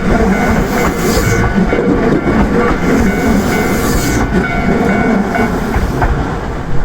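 Nankai Electric Railway train running past close by: a loud, steady rumble with the wheels clicking over rail joints now and then.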